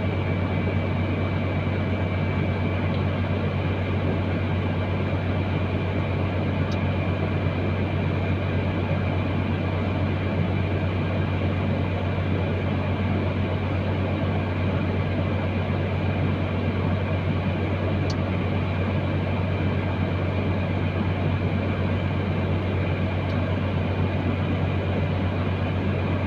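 Truck engine running with a steady, even low drone that does not change in pitch or level.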